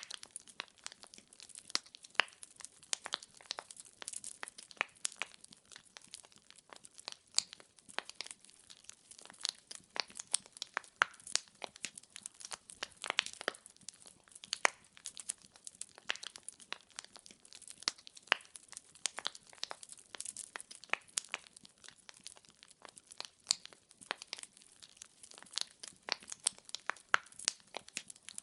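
Burning firewood crackling and popping: a dense, irregular run of small sharp crackles, several a second, with now and then a louder pop.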